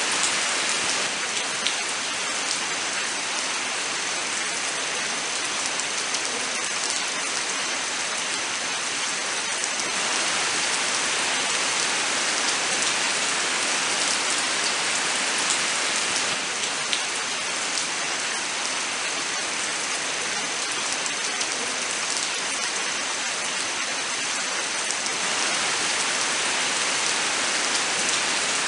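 Steady rain falling, a dense even hiss with individual drops ticking through it.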